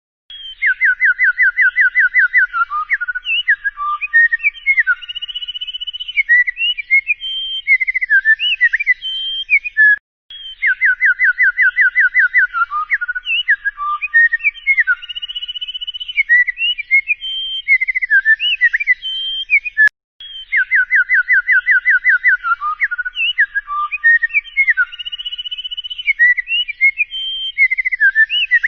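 A songbird's song: a fast run of about a dozen clear notes, then varied whistles, chirps and gliding notes. The same ten-second phrase repeats identically three times, a looped recording.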